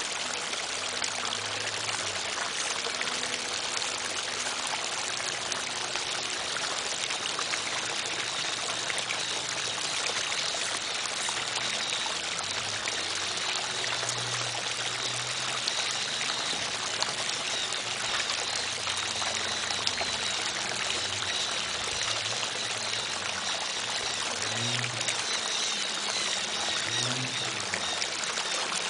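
Flowing stream water running steadily, an even rushing and trickling sound.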